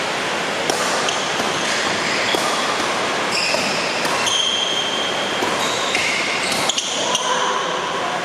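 A badminton rally on an indoor court: rackets hitting the shuttlecock in sharp cracks and sneakers squeaking on the court floor in short chirps. Under it runs a steady hiss of heavy rain on the hall roof.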